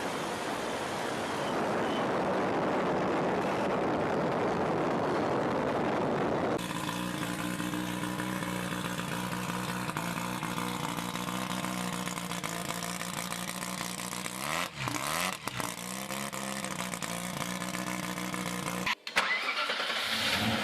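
Car engines running in a series of short clips: first a rough, noisy run, then an engine holding a steady speed with a brief dip and rise in pitch about fifteen seconds in, then a sudden cut to another engine revving up near the end.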